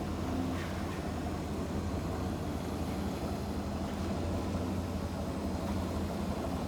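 Forklift engine running steadily at low speed while it moves a car body off a trailer.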